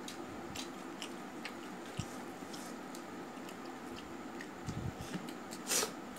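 Close-up eating sounds: wet chewing of rice and curry with small mouth clicks and smacks, and fingers working rice on a steel plate. One louder, sharper sound comes near the end.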